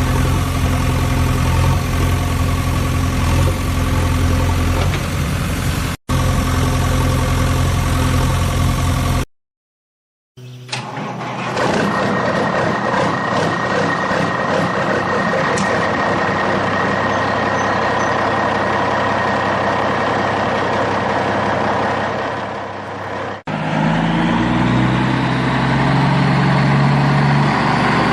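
Vehicle engine sounds running steadily, broken by abrupt cuts into separate segments, with a rising whine like revving near the end.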